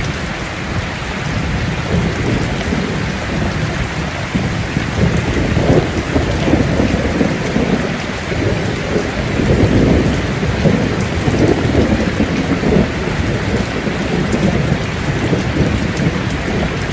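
Steady rainfall with low rolling thunder, the rumble swelling through the middle and easing off toward the end.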